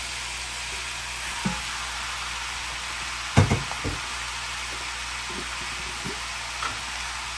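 Seasoned chicken pieces sizzling in a saucepan of browned sugar, a steady frying hiss. Two sharp knocks about halfway through.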